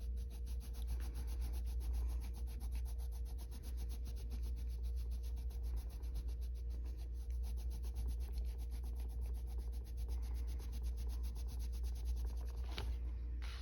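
Coloured pencil rubbing on paper in quick, rapid back-and-forth strokes, shading and blending.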